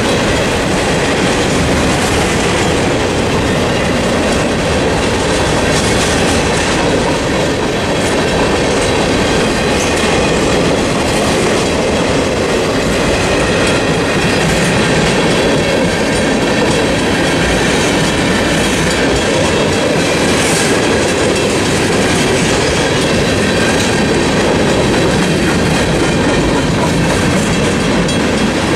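Freight train cars, mostly tank cars, rolling steadily through a level crossing, a continuous loud rumble of wheels on rail. Behind it the crossing signal's mechanical bell rings on.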